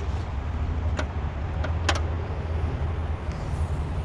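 Steady low hum of the Lexus IS250's V6 engine idling, with a couple of sharp clicks about one and two seconds in.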